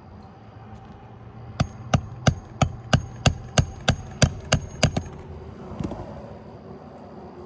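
Eleven quick hammer blows, about three a second, struck with a 16-ounce claw hammer on a roof snake to drive a roofing nail under the shingles, with a faint high ring after the strikes.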